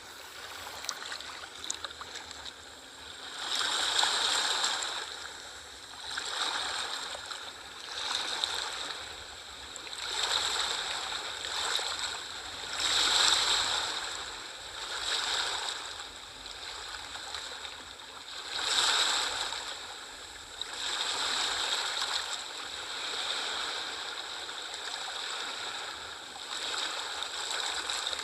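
Small ocean waves washing in, a hiss of surf that swells and fades every two to three seconds.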